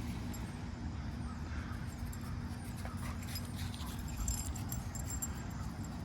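Two dogs play-fighting: scuffling and pawing with scattered light clicks and thuds, over a steady low rumble.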